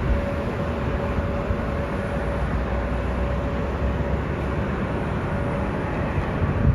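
Airbus A350-900's two Rolls-Royce Trent XWB jet engines at takeoff thrust: a steady deep rumble with a faint held tone above it.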